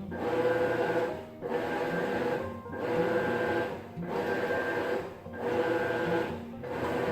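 Maytag top-load washer agitating, its motor and drive whining in repeated strokes about every 1.3 seconds, with a brief dip between strokes as the agitator reverses direction.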